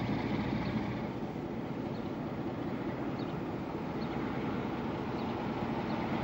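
Diesel-hauled passenger train running on the track: a steady rumble of locomotive and wheels, with faint short high squeaks every second or so.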